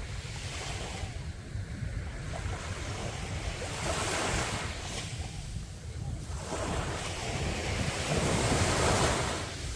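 Sea waves washing onto a beach: one wave surges in about four seconds in and a louder one near the end, over a steady low rumble of wind on the microphone.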